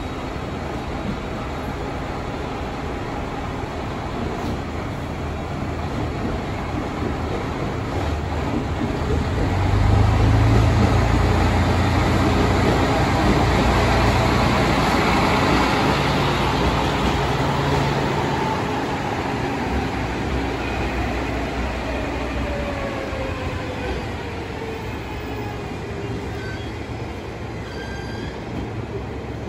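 Diesel railcar pulling away and passing: its engine's low hum and running noise build up and are loudest from about a third of the way in to the middle, then fade as it runs off into the distance, with a falling tone in the second half.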